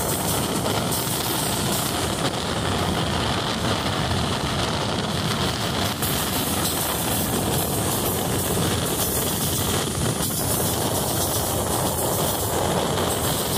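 Train running along the track: a loud, steady, even rumble of noise with no breaks.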